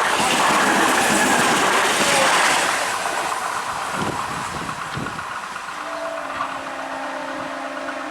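Electric multiple unit (EMU) local train passing on the rails, loud at first and easing off after about two and a half seconds. A steady hum comes in near the end.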